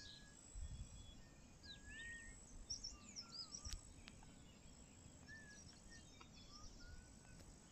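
Faint, scattered bird calls: a dozen or so short, thin whistles and chirps, some sliding up or down, over a low, even background rumble.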